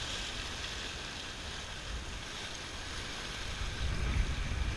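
Gusting wind buffeting the microphone over a steady wash of sea on the rocks, the gusts growing stronger near the end.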